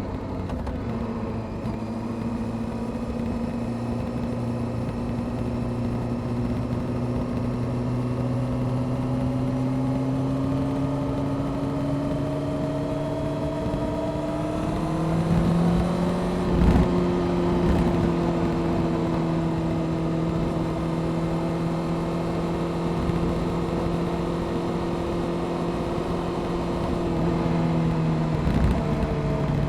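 Honda CBR600F Sport's inline-four engine through a Delkevic aftermarket exhaust, running under way. The revs climb slowly, rise quickly about halfway through with a brief knock, then hold steady and ease off slightly near the end.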